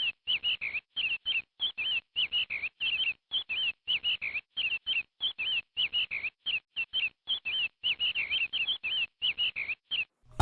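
A small bird chirping over and over, short swooping notes about four a second, each cut off cleanly into dead silence like a looped chirp recording.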